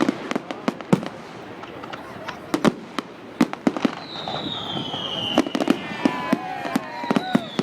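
Fireworks going off: irregular sharp bangs and crackles. A whistling firework glides down in pitch about four seconds in, and another starts near the end.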